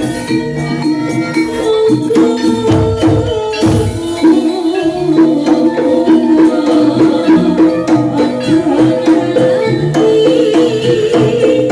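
Live jaranan gamelan music: ringing pitched tones from struck bronze instruments, with rapid drum strokes and jingling percussion over them.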